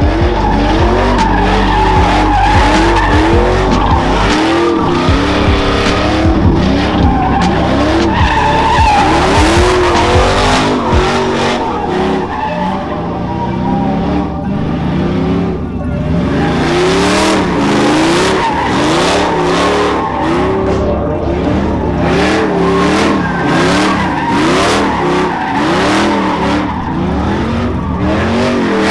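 A vehicle doing a burnout: the engine revs up and drops back over and over, about once a second, with tire squeal.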